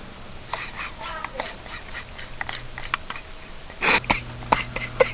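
Short, sharp chirping clicks repeat irregularly. About four seconds in comes a loud clunk, and a garage door opener's motor starts a steady low hum as the door begins to close.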